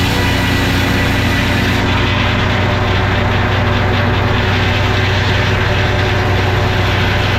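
A heavy engine running steadily at a constant speed, with a deep, even hum.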